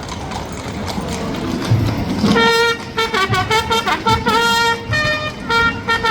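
Brass instruments start playing a marching tune about two seconds in, in short held notes, over the murmur of a crowd.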